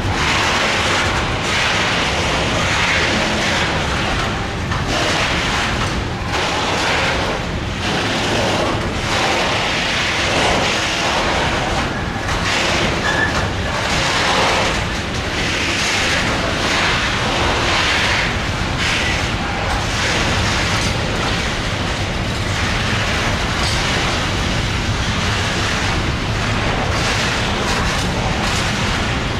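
Container freight wagons and passenger coaches rolling past on the station tracks: a steady rumble of wheels on rails.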